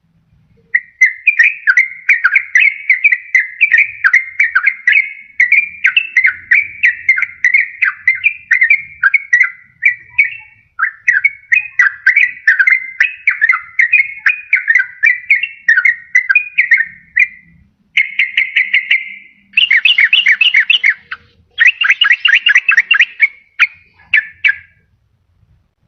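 Yellow-vented bulbul (trucukan) singing a rapid, bubbling chattering song, its notes tumbling almost without pause. A few brief breaks interrupt it, and near the end it switches to fast, even trills.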